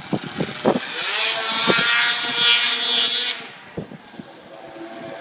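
Straight-piped Ski-Doo Mach 1 snowmobile's two-stroke engine revving up about a second in and running loud for a couple of seconds, then dropping back to a quieter, steady lower tone.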